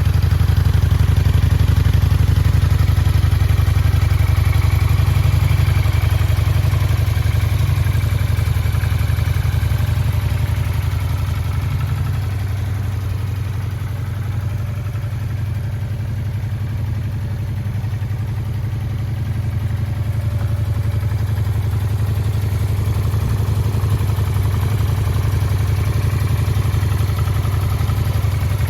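2011 Honda VT400S's 399 cc V-twin engine idling steadily, dipping slightly in level for a few seconds around the middle.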